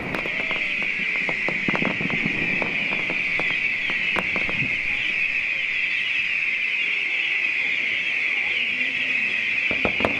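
Fireworks giving off a steady high-pitched hiss, with faint scattered pops and crackles.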